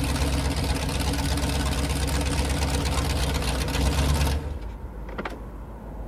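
Supercharged V8 of a blown '57 Chevy running loud and hard at speed, a dense steady engine note with rushing noise over it. About four seconds in it drops suddenly to a quieter, lower engine sound.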